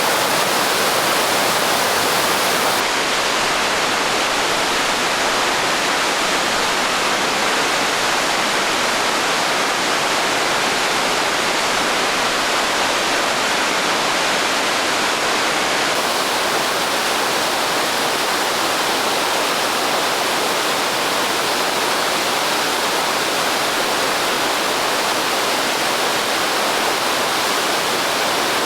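Naena Falls, a large waterfall in heavy spring snowmelt flow, pouring with a steady, dense rush of falling water, its hiss shifting slightly in tone twice.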